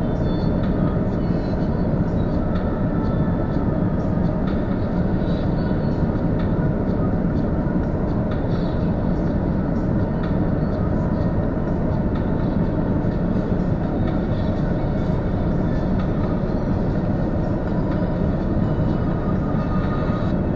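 Steady low rumble and rushing noise of a car with its engine running, heard from inside the cabin.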